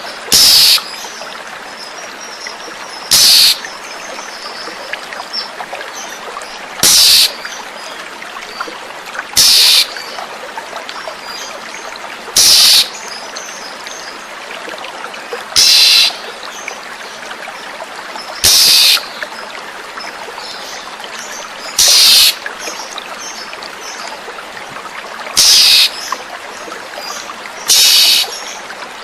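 Oriental magpie-robin giving a harsh rasping call about every three seconds, each call about half a second long, over steady running water with faint small chirps between the calls.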